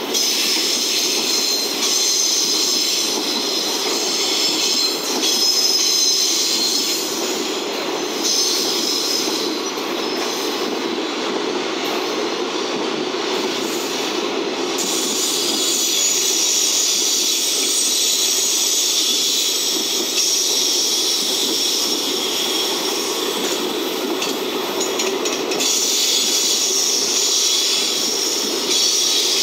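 Container freight train rolling past at speed: a steady rumble of steel wheels on the rails with a high wheel squeal that fades in the middle and comes back strongly in the second half.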